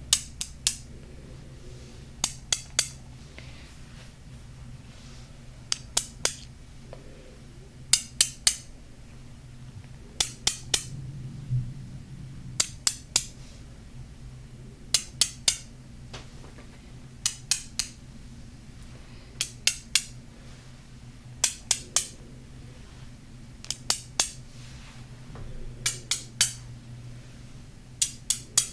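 Tapping on a golden crystal: quick groups of two or three sharp taps, repeating about every two seconds.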